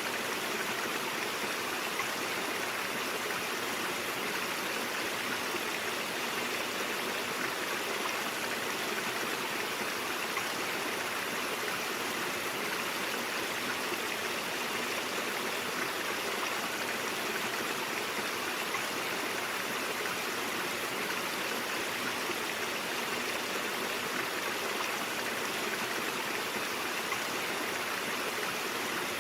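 A brook flowing steadily, an even, unbroken rush of running water.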